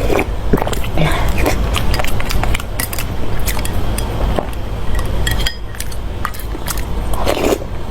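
Close-up eating sounds: chewing and mouth smacks with small clinks of utensils against a bowl, over a steady low rumble.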